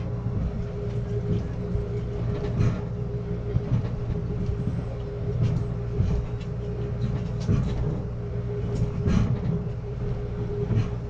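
Amtrak Cascades passenger train rolling along, heard from inside the coach: a steady low rumble with a constant hum, and scattered clicks and knocks from the wheels and car.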